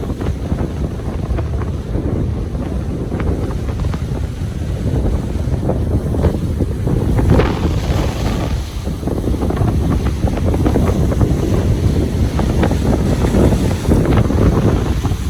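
Ocean waves washing on a beach, the surf swelling about halfway through and again near the end, under a heavy low rumble of wind buffeting the microphone.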